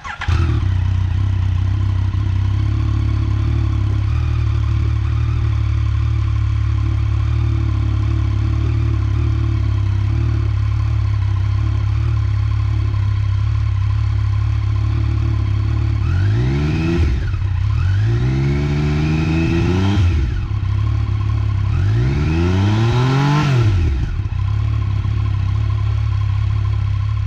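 Yamaha MT-09 (FZ-09) three-cylinder motorcycle engine through its stock exhaust, idling steadily and then revved three times, each rev rising in pitch and dropping back to idle; the second rev is held a little longer.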